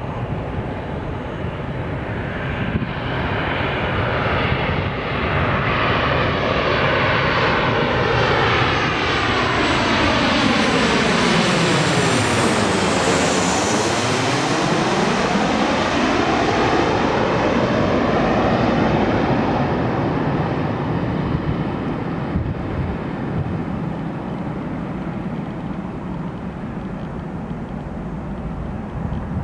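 Boeing 737-900ER on landing approach passing close by, the jet noise of its two CFM56-7 turbofan engines swelling to a peak about halfway through and then fading. As it passes, a phasing sweep falls and then rises in pitch.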